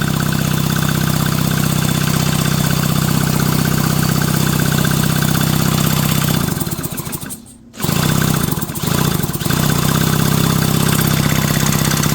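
McCulloch 5-10E chainsaw's built-in electric starter motor spinning the engine over at a steady pitch. It cuts out about six and a half seconds in, starts again a second or so later, falters briefly, then runs steadily again.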